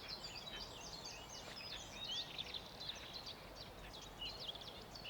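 Several wild birds singing at once: a busy chorus of short chirps and quick whistled notes over a faint background hiss.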